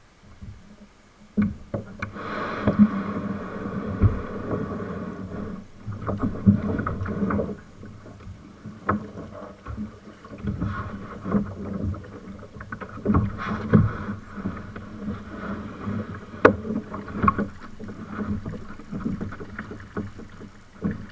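Kayak being paddled on a river: water splashing and swishing with the paddle strokes, broken by many irregular knocks and clatters.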